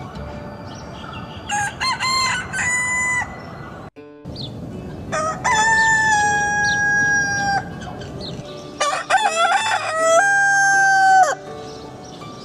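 Rooster crowing three times, each crow lasting a second or two, over a steady background hiss.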